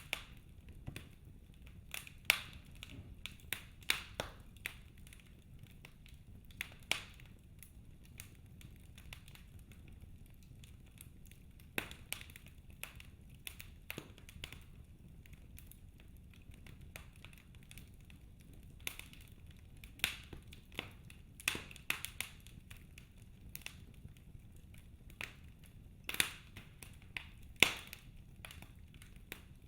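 Wood fire in a fireplace crackling: sharp irregular pops and snaps from burning logs over a low steady rumble, with a quieter spell of a few seconds about a third of the way in.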